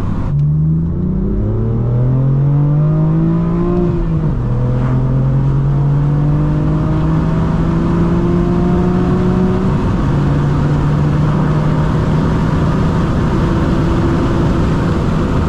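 BMW M4 F82's twin-turbo inline-six under hard acceleration: the revs climb for about four seconds, fall sharply on an upshift, build slowly again, then ease to a steady note about ten seconds in. The owner finds the exhaust not loud enough high in the revs.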